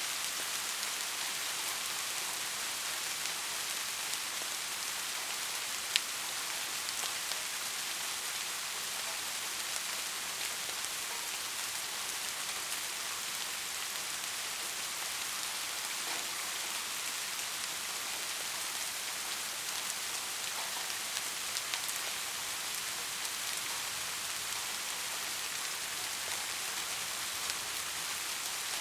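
Steady rain falling, an even hiss, with scattered louder drops ticking; one sharp tick about six seconds in.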